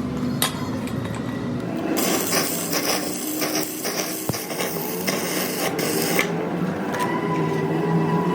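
Rasping scrape of a tool working metal, loudest for about four seconds from two seconds in, with scattered sharp clicks.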